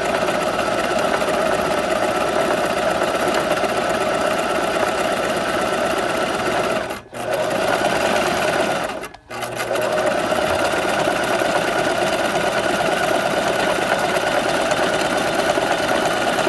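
Electric sewing machine running steadily at speed, stopping briefly twice, about seven and nine seconds in, before carrying on.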